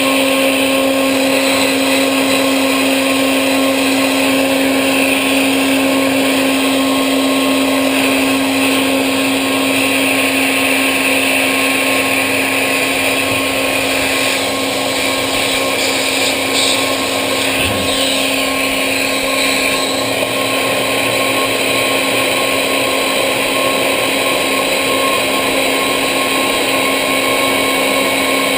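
CNC machine running steadily, with a constant pitched hum over a wash of machining noise and a brief change in the noise about halfway through.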